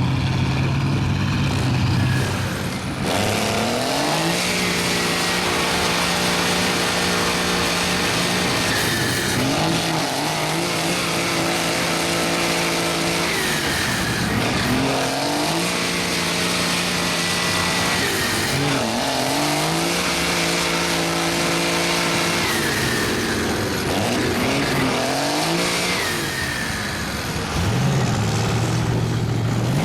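A mud truck's engine revved hard in repeated surges. Each surge climbs, holds high, then drops back, about every five seconds, typical of a truck trying to power through a deep mud hole.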